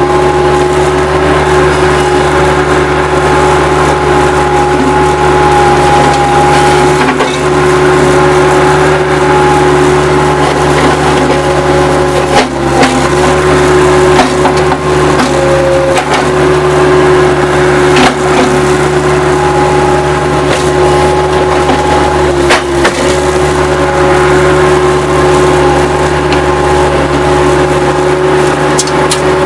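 Bobcat 763 skid-steer loader's diesel engine running steadily under work, with wood debris cracking and splintering as the grapple handles it. Sharp knocks and snaps come now and then, loudest around the middle of the stretch.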